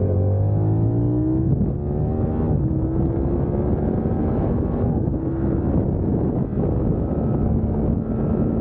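Yamaha R7's 689 cc parallel-twin engine under hard acceleration on track. Its note rises in pitch over the first second or so, then runs at a steadier, high-revving note.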